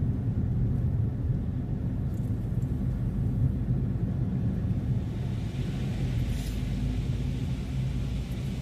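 Car driving: steady low rumble of engine and road noise, with a hiss of tyres on the road growing from about five seconds in.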